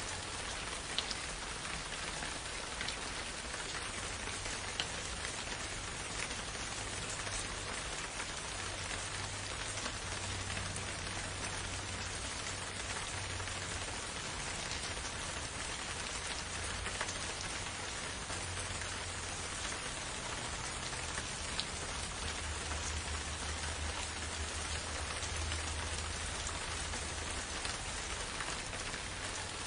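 Steady rain falling, a dense even hiss with a few individual drops ticking here and there.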